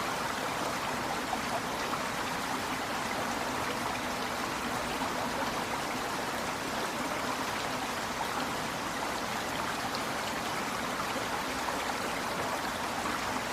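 River water flowing over rocks: a steady rushing and burbling that holds even throughout.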